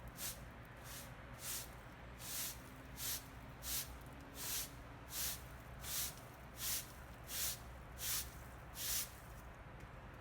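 Broom sweeping sunflower seed shells off a patio: a regular series of about a dozen brisk swishing strokes, roughly one every three-quarters of a second, growing louder and stopping about nine seconds in.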